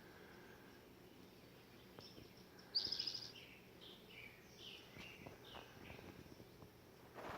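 Small birds calling: a series of short, falling chirps, with one louder, rapidly pulsed call about three seconds in.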